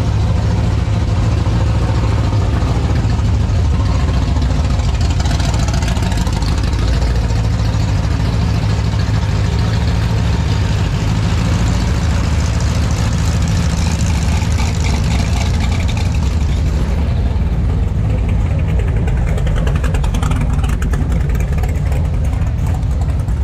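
Car engine idling steadily and loudly, a low even rumble with no let-up.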